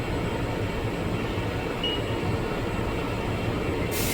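Steady low rumble of machine-shop background noise, with a short hiss of air near the end.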